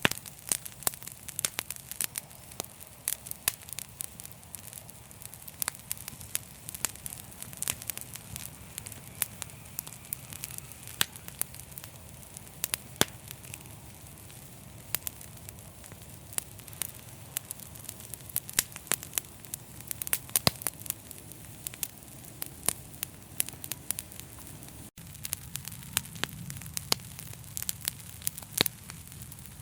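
Fire crackling: frequent sharp pops and snaps, several a second, over a steady low hiss.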